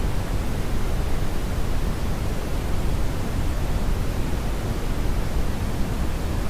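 Steady brownian noise: an even, deep rumbling hiss with most of its energy in the low end, unchanging throughout.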